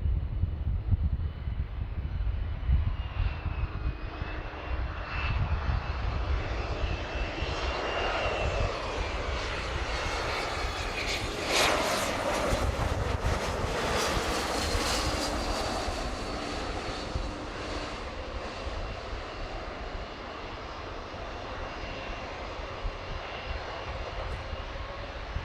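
Jet airliner passing close by on its landing approach: engine whine and rush with tones sliding down in pitch as it goes past, loudest about twelve seconds in, then fading to a low rumble.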